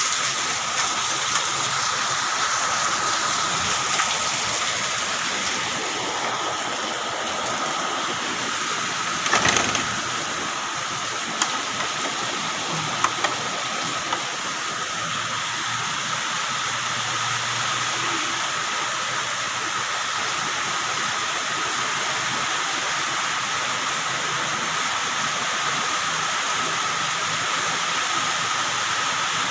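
Heavy rain pouring down steadily, a dense even hiss, with a few short knocks of water or drips about ten and thirteen seconds in.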